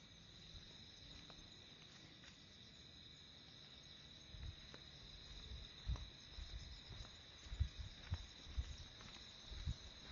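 Steady, high-pitched chorus of chirring insects. From about halfway, a series of soft, low, irregular thuds.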